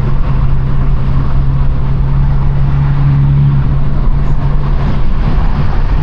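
Straight-piped BMW F32 428i's turbocharged four-cylinder exhaust droning steadily on the move, heard from inside the cabin. The note grows a little stronger about halfway through, then turns rougher and more broken near the end.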